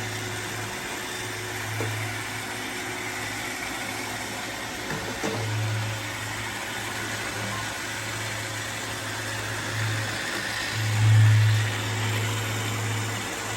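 Robot vacuums running: a steady motor hum and whirr of fans and brushes, swelling louder for a moment about eleven seconds in.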